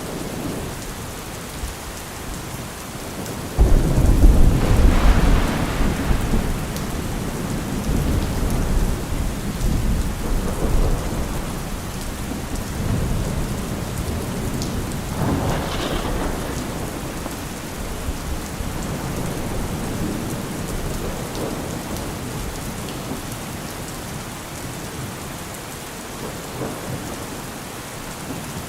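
Steady rain falling during a thunderstorm. About three and a half seconds in, a sudden loud thunderclap rolls into a long low rumble that fades over several seconds, and a second, shorter peal of thunder comes about midway.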